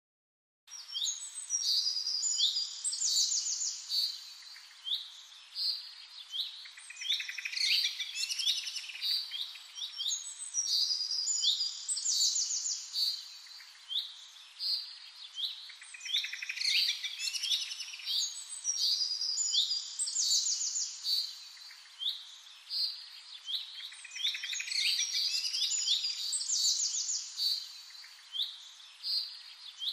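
Songbirds chirping and twittering in quick, high trills, the same run of calls coming round about every nine seconds.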